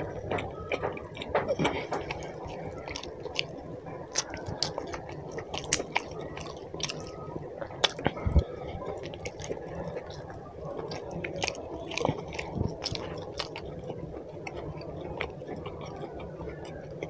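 A man chewing mouthfuls of roti and chicken curry up close, with many short, wet smacking clicks of the mouth.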